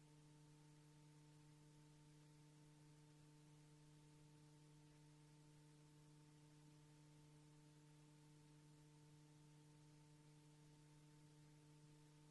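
Near silence: a faint steady electrical hum with a low tone and a few higher overtones over tape hiss.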